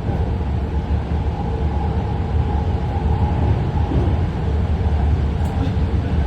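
BART train running between stations, heard from inside the car: a steady low rumble of wheels on rail and running gear, with a faint steady hum over it.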